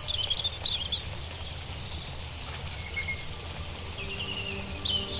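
Small songbirds twittering and chirping in quick little phrases over a low, steady outdoor rumble. Faint music with held notes comes in near the end.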